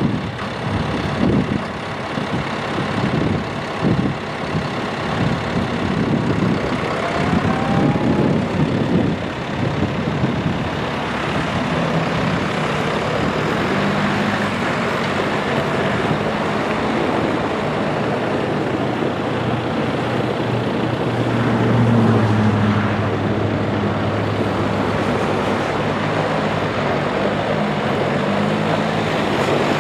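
John Deere 6120M tractor's four-cylinder turbo diesel engine running: uneven and noisy at first, then settling into a steady low note about a third of the way in, which swells louder for a few seconds about two-thirds through.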